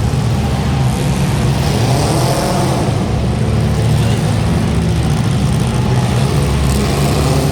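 Car engine running steadily, a loud, even low drone.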